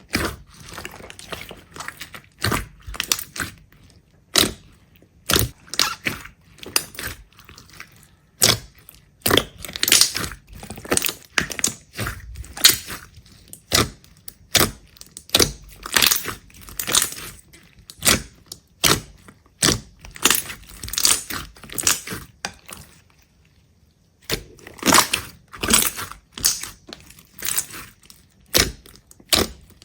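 Repeated sharp crunching and cracking, a few crunches a second, as of something brittle being crushed or broken, with a short pause about two-thirds of the way through.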